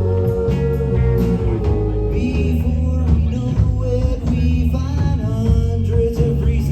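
Live rock band playing loudly, with electric guitar, bass and drums and a voice singing over them.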